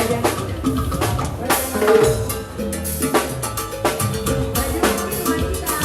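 Live band music led by a drum kit: many quick drum hits with bass drum and snare, over a band playing underneath, starting just as a held chord ends.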